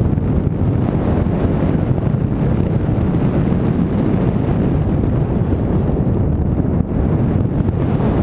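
Wind buffeting the microphone: a loud, steady rush with no engine note in it.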